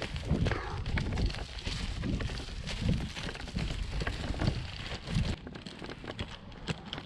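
Inline skates with 125 mm wheels rolling over a dirt trail: a crackling rumble with a low thud about twice a second, with wind on the microphone. About five seconds in it eases to a quieter roll.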